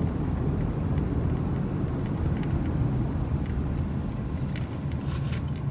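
Steady car cabin noise while driving: engine and tyre rumble, with a few faint ticks near the end.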